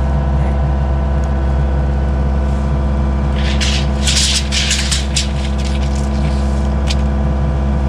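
Sawmill engine running steadily. A burst of scratchy noise comes in about three and a half seconds in and stops a couple of seconds later.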